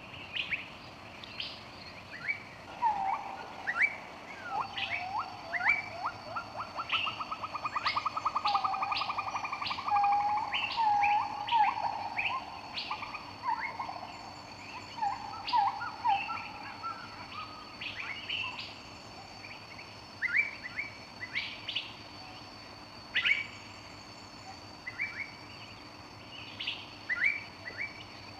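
Birds chirping and calling, many short high chirps, with a rapid lower trill through roughly the first half. A steady high whine runs behind them.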